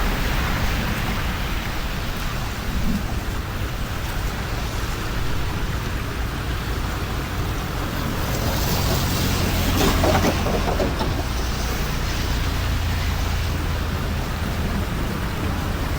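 Steady noise of heavy rain, swelling briefly a little past halfway.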